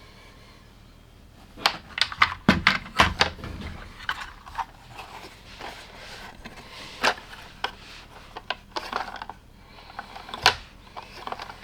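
LEGO plastic pieces being handled and snapped together: irregular sharp clicks and clatter, with a few duller knocks about two and a half to three seconds in.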